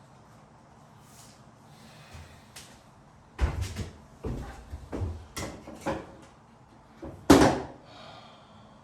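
A run of sharp knocks and bumps, five or six in a little over two seconds, then a single louder bang about a second later.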